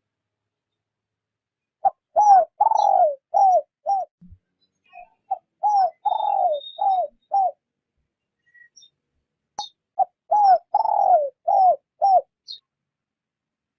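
Spotted dove cooing: three phrases, each of about five notes, a short note, two longer coos that slide down in pitch, then two short ones, with pauses of a second or two between phrases.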